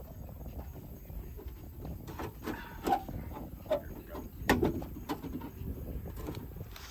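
Irregular clicks, knocks and a couple of short squeaks of car parts being pushed and worked into place by hand.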